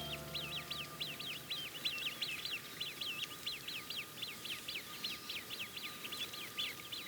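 A bird calling in a fast, even series of short high notes, about five or six a second, as background music fades out in the first second.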